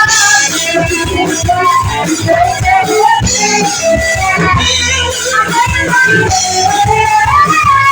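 Live band playing a song, with guitar and a steady beat.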